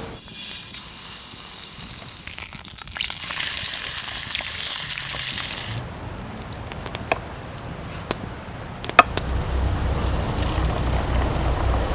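Sizzling in a hot pan over a campfire: a loud hiss that cuts off about six seconds in, followed by scattered crackles and pops from the fire.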